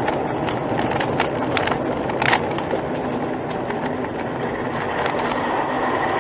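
Steady road and tyre noise from a vehicle driving, with a few light clicks and knocks between about one and two and a half seconds in.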